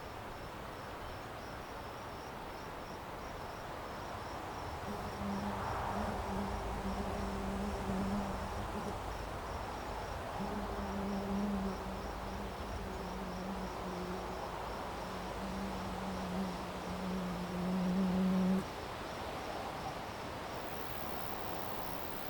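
Crickets chirping steadily in a fast, even pulse. About five seconds in, a low motor hum comes in, grows louder with some gaps, and cuts off suddenly a few seconds before the end.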